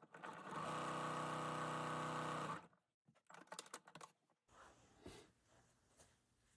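Sewing machine running steadily for about two and a half seconds while stitching a seam, then stopping abruptly. Light clicks and handling noise follow.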